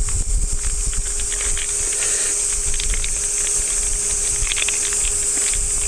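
A dense, steady chorus of cicadas, with scattered light clicks and a low wind rumble on the microphone beneath it.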